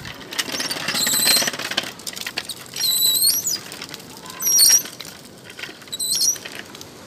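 Birds in the surrounding trees give short, high-pitched chirps about four times. Under the first of them, a child's bicycle rattles as it rolls over brick paving.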